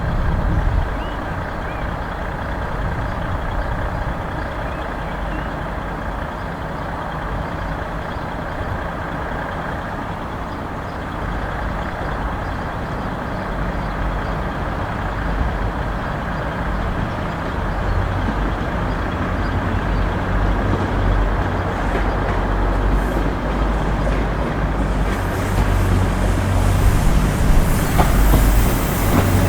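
Diesel train running, a steady rumble with a deep low hum that grows louder over the second half.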